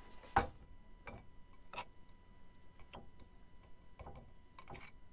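Eating sounds: about six small, scattered clicks and taps at irregular intervals, the loudest about half a second in.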